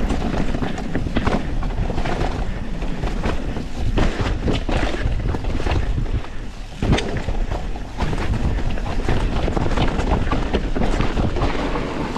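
Mountain bike riding fast over a wet, rooty trail, heard from a camera on the rider: wind rushing over the microphone with continual knocks and rattles from the tyres and frame hitting roots.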